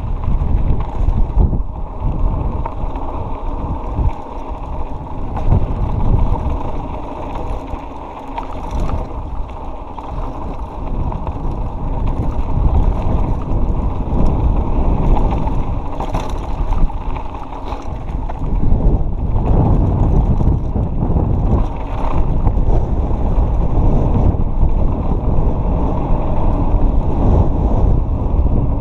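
Wind buffeting the microphone over the continuous rumble and rattle of a mountain bike rolling down a dirt trail, with occasional knocks from the bike over rough ground.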